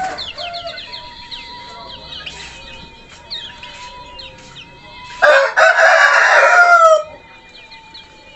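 Kecial kuning, a small yellow white-eye, singing in quick high chirps with short downward-sweeping notes. About five seconds in, a rooster crows loudly for nearly two seconds, drowning out the bird, its call falling in pitch at the end.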